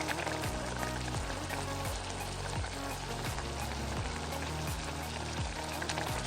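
Creamy garlic sauce bubbling and sizzling steadily in a pan over the heat, with floured chicken pieces in it. Background music runs underneath.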